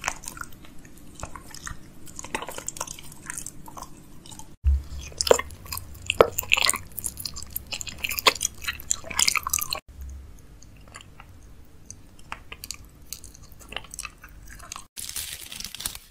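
Close-miked chewing of food, with many sharp little crunches and mouth clicks, in short spliced clips that cut off abruptly about every five seconds.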